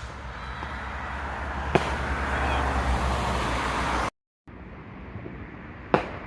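Two sharp firework bangs about four seconds apart, over a rising rush of outdoor noise that cuts off suddenly partway through.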